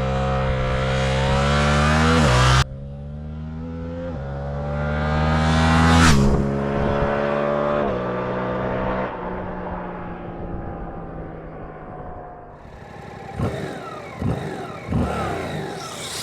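Suzuki GSX-8S's parallel-twin engine heard from onboard, revving up under acceleration, with a sudden drop in note about two and a half seconds in as it shifts up, then climbing again until about six seconds in. The throttle then closes and the revs fall away over several seconds, with a few sharp blips near the end.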